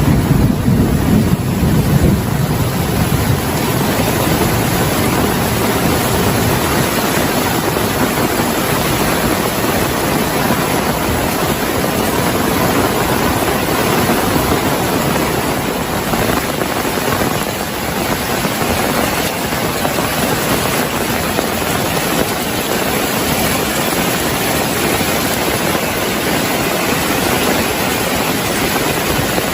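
Heavy rain pouring steadily, a dense even hiss. A low rumble of thunder fades away over the first few seconds.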